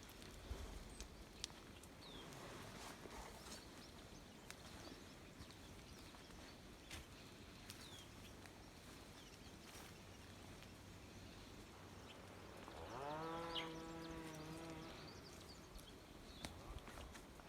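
Quiet outdoor background with faint scattered ticks. About thirteen seconds in, an animal gives one drawn-out call lasting about two seconds, rising at the start and then held level.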